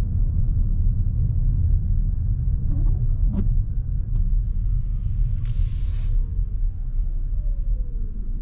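Lexus NX350h driving, its road and tyre noise making a steady low rumble. There is a short knock a little over three seconds in, and a brief hiss just past five seconds.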